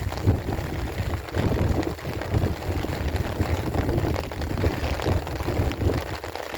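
Wind buffeting a phone microphone, a loud, uneven low rumble, over a steady hiss of falling rain.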